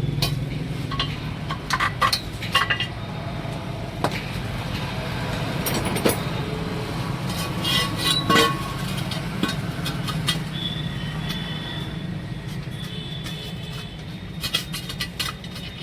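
Metal tools clinking and knocking at irregular moments during tyre-changing work, with a steady low engine hum underneath.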